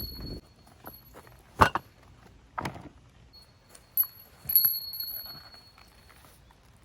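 A small bell ringing on and off, with a few sharp knocks, the loudest two about a second apart.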